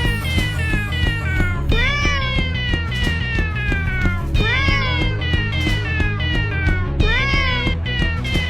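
Cat meows, long calls that rise briefly and then slide slowly down, starting again about every two to three seconds, over music with a steady pulsing beat.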